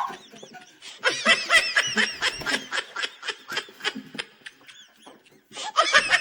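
A person laughing in a rapid run of short, pitched pulses, which fades out after about four seconds; a louder burst of laughter and voice starts near the end.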